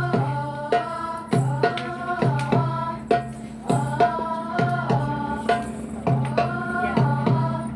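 Live singing over a steady low drone, with a drum struck in a regular beat about every two-thirds of a second.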